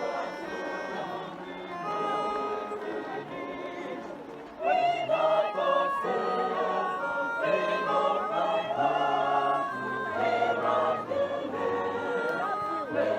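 Choir singing a hymn in sustained harmony, softer at first and swelling to a louder, fuller sound about four and a half seconds in.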